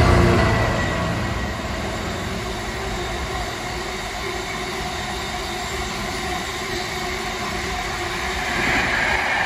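A long container freight train hauled by a GBRf Class 66 diesel locomotive passing close by. The locomotive's engine fades over the first second, leaving the steady rumble and rattle of container wagons rolling over the track. A brighter, higher-pitched swell from the wheels comes near the end.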